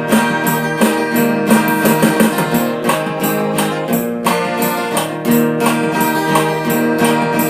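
Instrumental break in a folk song: guitar strummed in a steady rhythm, with held notes underneath and no singing.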